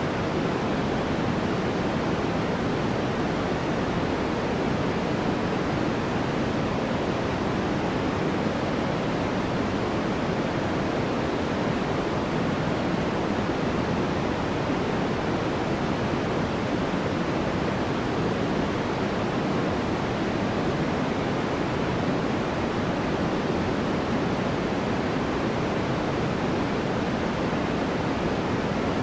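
Steady sleep-aid noise: a constant, even hiss with most of its weight in the low-middle range, fading toward the treble, so closer to pink noise than flat white noise. It does not change in level or texture.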